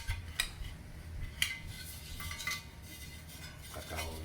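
Light metal clinks and taps as sheet-metal water heater parts, the burner plate among them, are handled and fitted into their grooves. A handful of separate knocks, with a low steady hum underneath.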